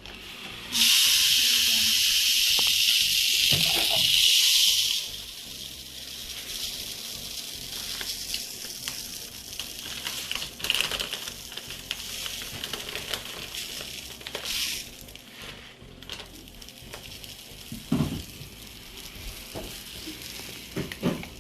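Bird seed being poured into a plastic-bottle bird feeder: a loud rushing hiss of seed for about four seconds, then a softer, uneven trickle with scattered rattles as the flow slows.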